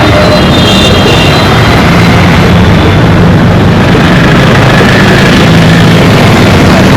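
Dense road traffic: engines running close by in a steady low rumble, with faint high horn tones in the first second or so.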